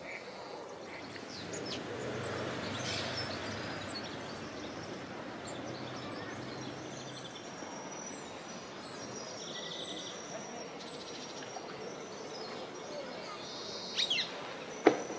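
Small songbirds chirping and calling in short high notes over a steady background hum of city park noise, with a sharp knock near the end.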